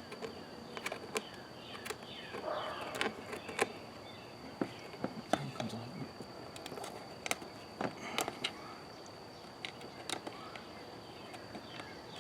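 Scattered light clicks, taps and scuffs of hands working plastic push-pin clips and a plastic cover in a car's engine bay, over a steady faint high-pitched tone.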